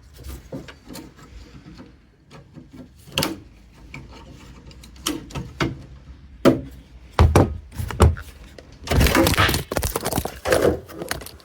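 Scattered knocks and clicks of parts being handled while a hot water heater is taken apart, with a louder couple of seconds of rustling clatter about nine seconds in.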